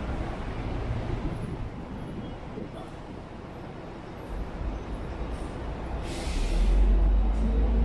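Road traffic running past, a steady noisy rumble. About six seconds in there is a short hiss, and the low rumble grows louder from then on.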